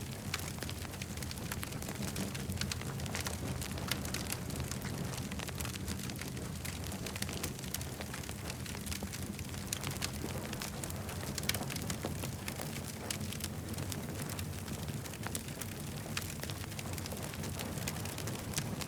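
Wood campfire burning, with many small sharp crackles and pops scattered irregularly over a steady low rumble.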